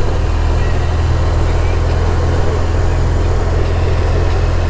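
BMW R1200 motorcycle's flat-twin engine running steadily under way, with steady wind rush over the helmet microphone.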